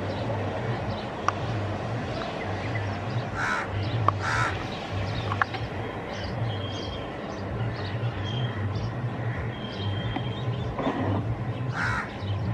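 Steady rumble and low hum of a train running, with crows cawing three times over it.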